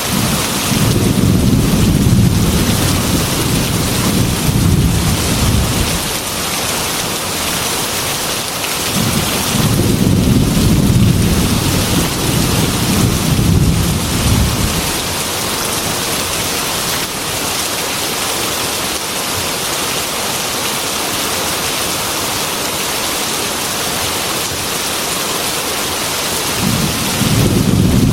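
Heavy rain pattering steadily on a glass window, with long low rolls of thunder: one in the first few seconds, another from about nine to fifteen seconds in, and a third starting near the end.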